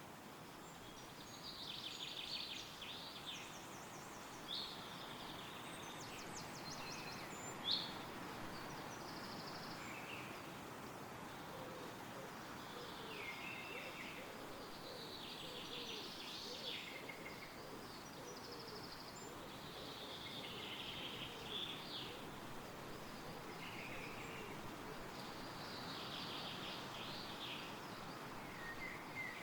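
Woodland birds singing short, high phrases every couple of seconds over a steady rustle of wind through the trees.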